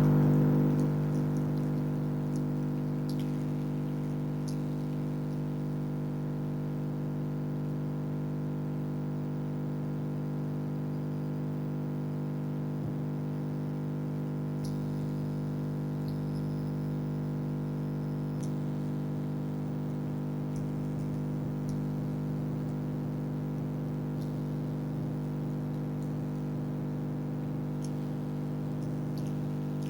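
Freezer humming steadily: a low, even hum with several steady overtones.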